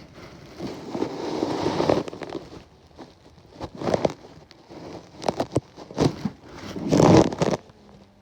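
Bee suit fabric rustling and scraping against a phone recording from inside the suit pocket, in a series of irregular bursts, the loudest about seven seconds in.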